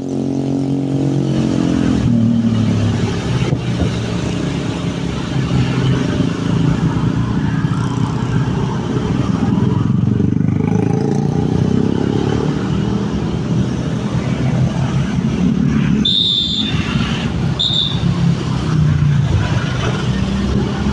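Motor vehicle engine running while driving, with a steady rumble of road and wind noise. Two short high-pitched chirps come about three-quarters of the way through.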